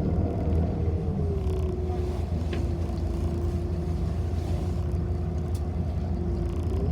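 City bus heard from inside, running with a steady low rumble and a whine that drops in pitch about a second in, holds steady, then rises again near the end.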